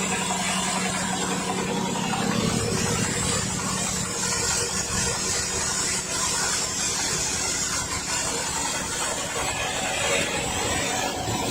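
Motorised corn sheller running steadily: a constant engine hum under a dense, even rattling hiss.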